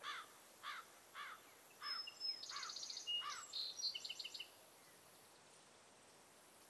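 Birds chirping over faint outdoor background: six short rising-and-falling chirps about every half second, overlapped from about two seconds in by a quicker run of higher twittering chirps that stops about four and a half seconds in.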